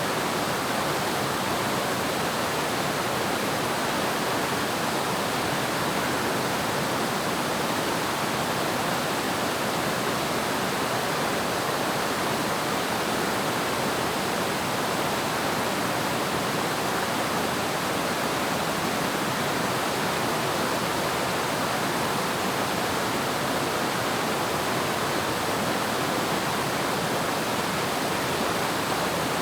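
Waterfall pouring steadily, a constant rushing hiss of falling water with no breaks or changes.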